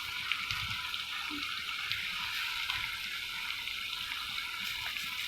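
Cashews, almonds and raisins frying in oil in a pot: a steady sizzle with faint small crackles.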